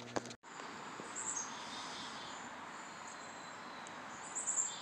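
Outdoor background hiss with a few short, high bird chirps, about a second in and again near the end; a brief click comes at the very start.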